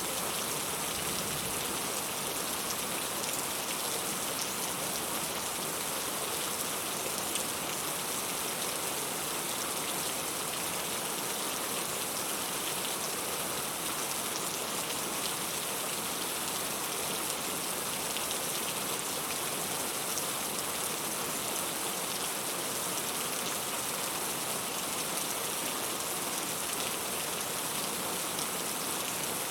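Steady rain falling, a continuous even hiss of many fine drops striking a surface.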